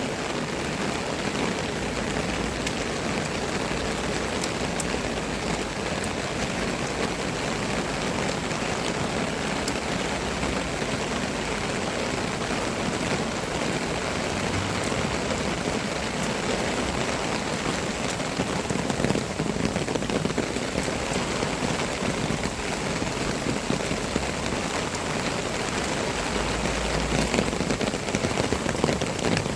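Steady rain falling on a surface, a continuous even patter with scattered individual drops.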